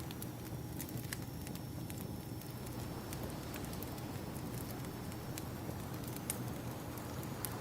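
Wood fire crackling, with sharp irregular pops over the steady low rush of ocean waves.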